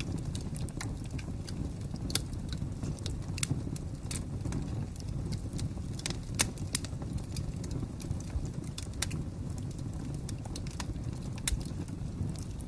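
Wood fire crackling: a steady low rumble with irregular sharp snaps and pops scattered through it, the loudest pop about six seconds in.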